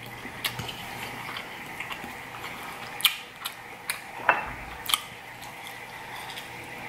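Close-up chewing and mouth sounds of a person eating a mouthful of jambalaya rice, with scattered sharp clicks and smacks, the loudest about three and five seconds in.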